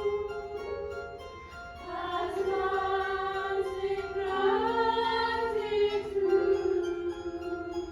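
Classical vocal music: high voices singing long held notes with vibrato over instrumental accompaniment.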